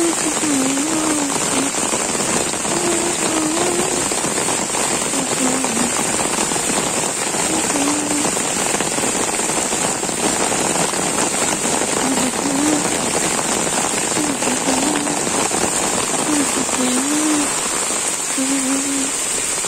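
Heavy rain pouring steadily, a dense even hiss of a downpour on the ground, trees and roofs.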